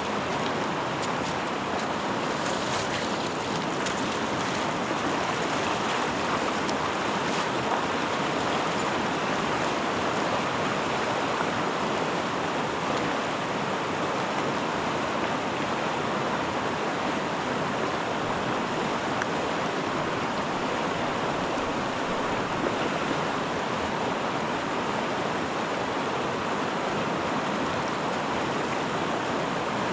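Steady rush of flowing water from a river ford deep enough to stop a bicycle.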